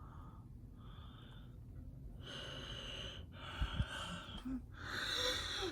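A person breathing close to the microphone, softly at first, then heavier, with longer and louder breaths from about two seconds in and a couple of low knocks.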